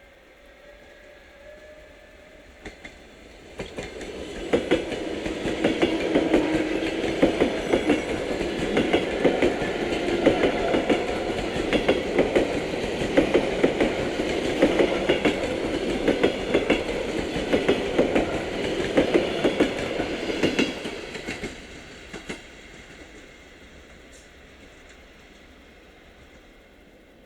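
EP2D electric multiple unit passing through the station at speed without stopping. It builds up about four seconds in, goes by loudly for around seventeen seconds with its wheels clicking rapidly over the rail joints, then fades away.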